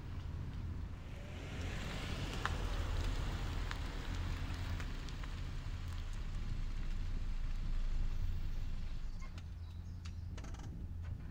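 BMW 320i (F30) running at low revs, a steady low rumble. A rushing hiss rises about a second and a half in and fades out by about four seconds, and a few faint ticks come near the end.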